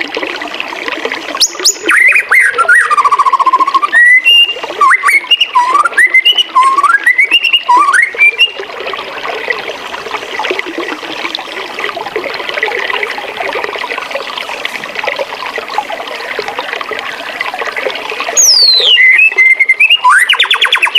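Birds singing in sliding whistled notes over steadily running water. The birdsong fills the first several seconds, then mostly the water is heard, until a falling whistle and a fast trill come in near the end.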